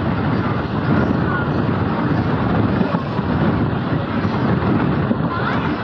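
Passenger train running at speed: a steady rumble of wheels on the track, with wind rushing over the microphone.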